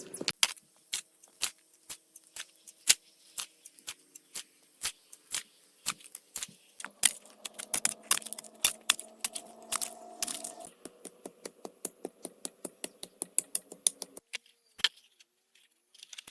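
A quick series of sharp clicks and taps, several a second, that thins out and stops about two seconds before the end.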